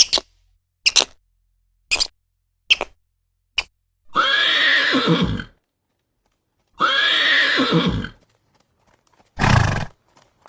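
Horse neighing twice, each whinny lasting over a second and falling in pitch. A few sharp knocks come before the calls, and a short noisy burst near the end.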